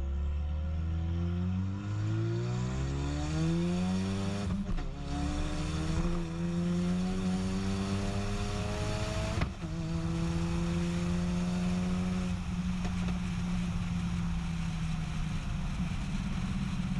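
Ford Mustang EcoBoost's turbocharged 2.3-litre four-cylinder, with only a catless downpipe and dumping straight after it, accelerating up through the gears. The pitch rises and drops at gear changes about two, five and nine seconds in, then holds steady at cruise.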